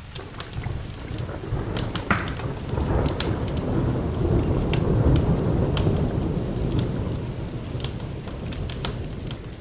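A long roll of thunder that builds over a few seconds, peaks about halfway and slowly fades, over steady rain. Sharp crackles and pops from a wood fire sound throughout.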